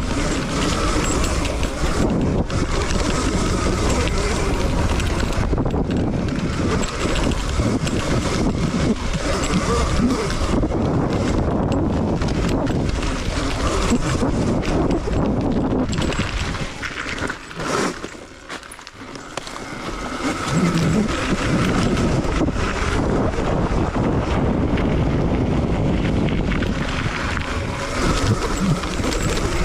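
Dirt bike riding heard through the recording microphone: a steady rush of wind noise with motor and tyre noise under it. It drops off briefly in the middle, then returns.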